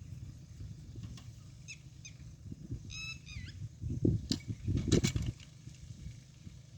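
Farmtrac Atom 26 compact diesel tractor running at low speed while ploughing, an uneven low rumble that swells around four to five seconds in. About three seconds in a bird gives a short honking call that bends down at its end, and a few sharp clicks come near the loudest part.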